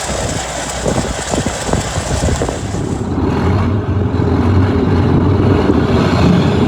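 Diesel engine of a 1983 Mack R-model truck running through a 5-inch single exhaust stack. It clatters for the first few seconds, then turns to a deeper, steadier run about three seconds in.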